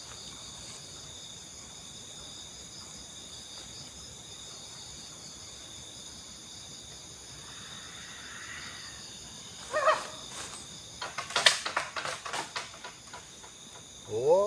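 Steady high-pitched chorus of forest insects, several even tones held together. Near the end a burst of sharp clicks and crackles cuts in over it.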